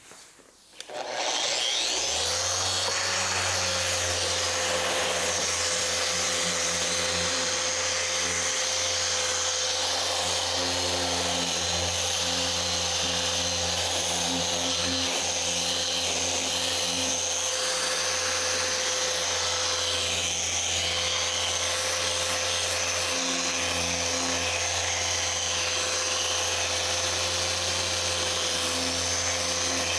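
Flex 3-inch random-orbital polisher starting up about a second in, spinning up with a rising whine, then running steadily under load as it corrects the paint.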